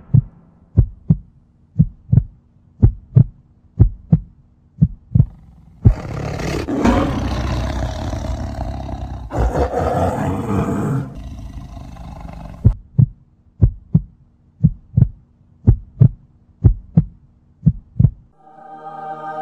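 Heartbeat sound effect, thumps coming in pairs about once a second. In the middle, a werewolf's roar, a sound effect, runs for about five seconds while the heartbeat pauses. A held musical tone comes in near the end.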